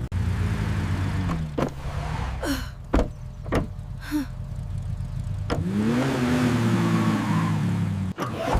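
Motor vehicle engine running steadily, with a few sharp knocks, and the engine pitch rising and then falling once from about five and a half seconds in.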